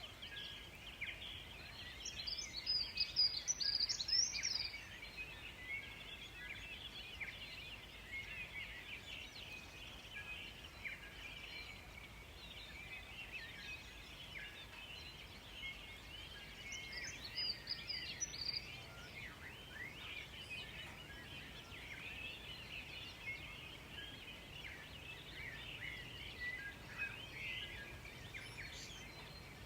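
Forest songbirds chirping in a steady chorus, with one bird singing a louder, high trilled phrase twice: about two seconds in and again a little past halfway.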